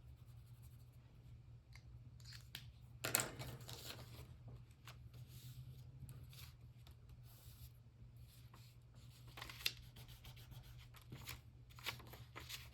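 Faint paper rubbing and rustling from hands-on collage work, with a louder scrape lasting about a second near three seconds in and a few light ticks later.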